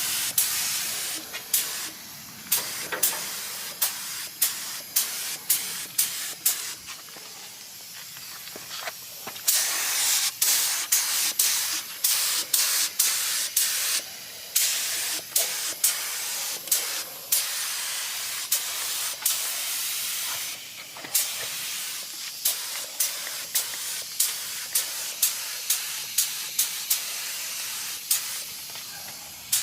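Air-powered paint spray gun spraying, a steady high hiss of compressed air and atomised paint, broken by many short bursts as the trigger is pulled again and again.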